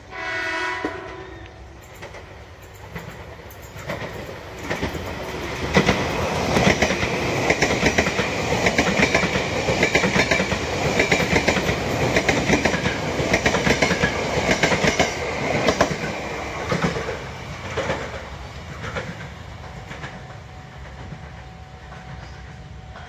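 A train horn sounds briefly at the start. Then a train passes fast, its wheels clattering over the rail joints for about a dozen seconds before the sound fades away.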